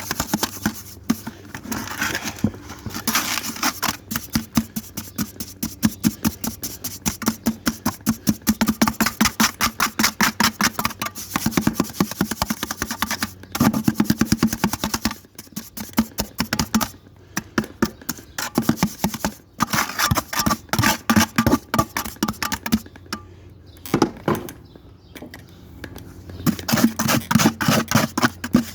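Rapid, rhythmic rubbing strokes of a hand scrubbing repaired brick and mortar, several strokes a second, pausing briefly a few times, over a steady low hum.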